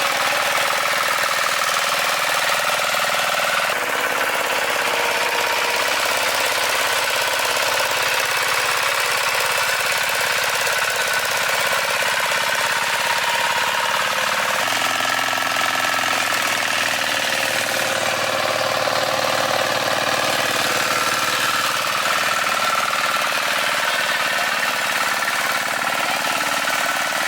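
A farm machine's engine running steadily at an even level, with a mechanical chugging quality.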